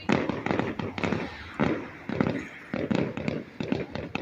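Fireworks going off in quick succession: a run of sharp bangs and crackles, several a second.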